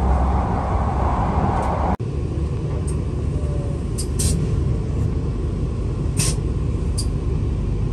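Steady rumble and hiss of a KTM ETS electric intercity train running at speed, heard inside the passenger car. About two seconds in it cuts off abruptly to a lower, steady rumble with a few short, high chirps.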